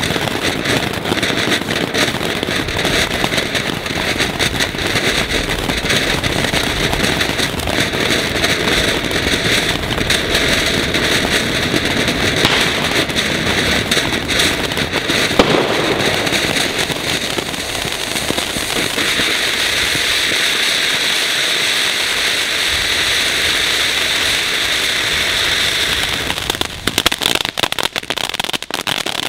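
Weco 'Ocean of Lights' fountain battery burning: a continuous hissing rush of fountain effects with dense crackling. About two-thirds through it turns to a brighter, steadier hiss, and near the end it breaks up into scattered crackles and pops.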